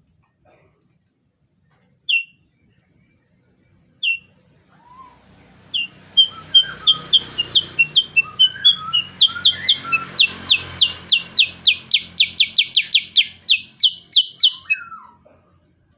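Cucak kurincang, a bulbul, singing: two single sharp notes, then a long rapid run of repeated short notes that quickens towards the end.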